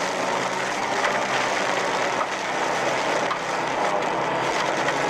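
Hail and wind beating on a storm-chase vehicle: a loud, steady, dense rush of small knocks, with a low hum underneath.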